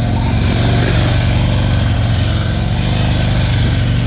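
Motorcycle engine running steadily at low speed, holding an even low note with no big revs.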